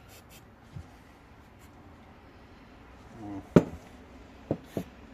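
Parts and tools being handled: a few sharp clicks and light knocks, the loudest a little past halfway, with faint rubbing between.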